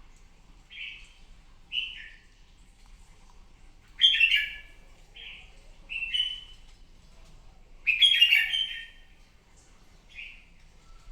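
Red-whiskered bulbul singing its combative challenge song: short, clear whistled phrases repeated every second or two. The loudest phrases come about four and eight seconds in.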